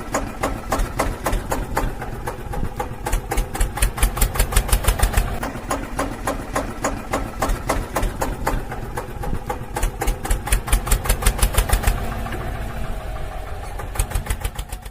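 A small engine chugging with a fast, even knock. The beat swells louder twice, about four and ten seconds in.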